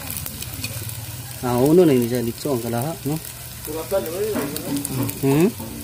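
Dried anchovies sizzling in hot oil in a metal wok while a metal spatula stirs them. A voice rises and falls in pitch several times over it, loudest about two seconds in.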